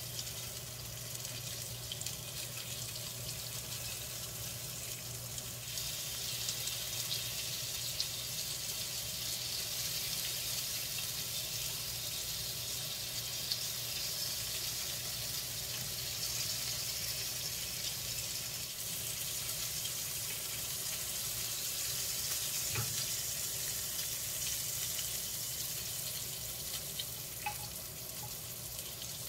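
Pieces of meat sizzling steadily as they fry in a small square pan, a little louder about six seconds in, with a few light clicks of chopsticks against the pan near the end.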